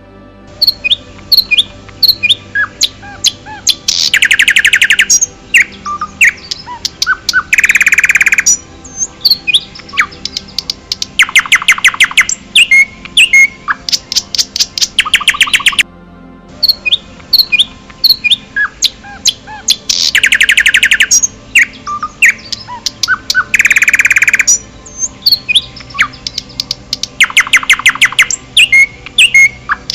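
Forest birds chirping and singing, with short rising chirps and several fast trilled runs. The same passage comes round again about every sixteen seconds, as a looped recording does.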